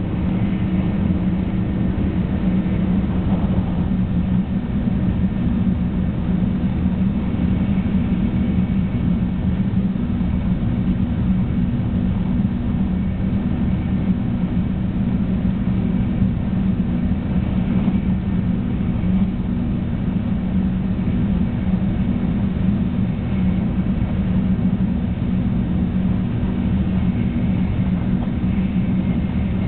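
Running noise of a Shinkansen 300 series train heard inside the passenger cabin at speed: a steady rumble with a constant low hum, unchanging throughout.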